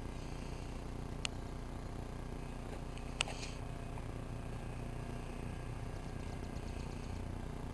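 Twin small electric motors of a toy RC airplane running with a steady low hum. Two sharp clicks stand out, about a second in and about three seconds in.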